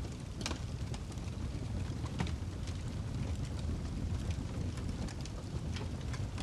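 Wood fire burning in a fireplace: a steady low rumble of flame with scattered sharp crackles and pops from the burning log, two of them louder, about half a second and two seconds in.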